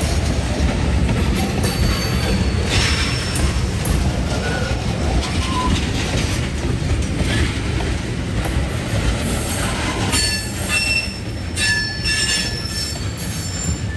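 Loaded ethanol tank cars rolling slowly past, backing up, with a steady low rumble from the wheels on the rails. Short high metal squeals come from the trucks now and then, more often in the last few seconds.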